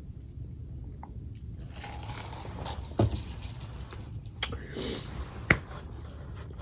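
Close-up eating sounds: chewing with a few sharp mouth clicks and soft rustles, the loudest about three seconds in and again near the end.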